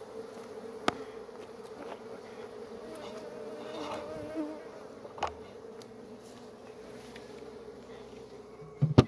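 Honeybees buzzing steadily around an opened hive during an inspection, a continuous low hum. A few sharp knocks cut through, one about a second in, one about five seconds in and the loudest near the end.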